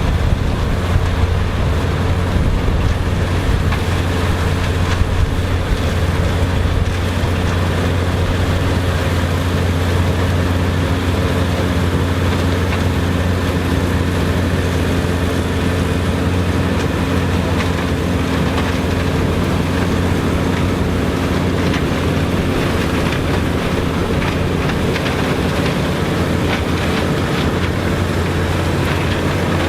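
Engine of old farm harvesting machinery running steadily at a constant speed, a continuous drone.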